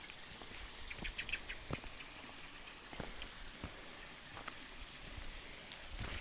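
Steady hiss of rushing river water, with scattered light taps and clicks and a few brief high chirps about a second in.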